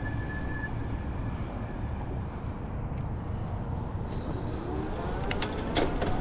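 Steady road and engine noise of a car being driven, heard from inside the cabin. The engine note rises a little near the end, and a few sharp clicks come in the last second.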